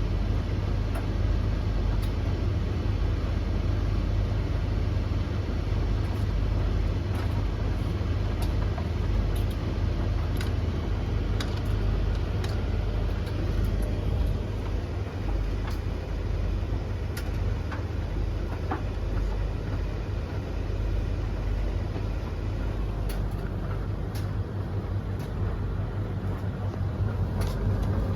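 Three tumble dryers (Blomberg, Russell Hobbs and Hoover) running together mid-cycle: a steady low motor-and-fan hum with the rush of tumbling drums. Scattered light clicks and taps come through irregularly.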